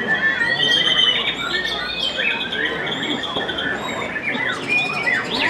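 White-rumped shama (murai batu) singing a dense run of varied whistles, glides and chattering trills.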